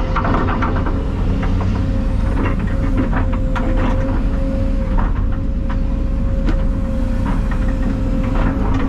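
Heavy diesel engine running steadily, with a constant whine and scattered rattles and knocks.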